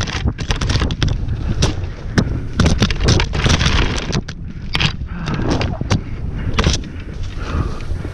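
Mountain bike clattering over rough trail, picked up by a camera mounted on the bike: many irregular sharp knocks and rattles from the frame and parts, over a heavy rumble of wind buffeting the microphone.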